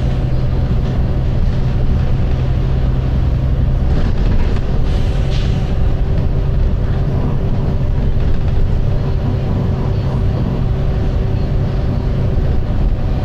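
Volvo B9TL double-decker bus running with a steady low drone. Its note changes about four seconds in, and there is a brief higher hiss shortly after.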